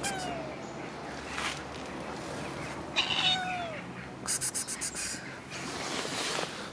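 A cat meowing twice, about three seconds apart, each call falling in pitch, followed a little after the second by a quick run of sharp clicks.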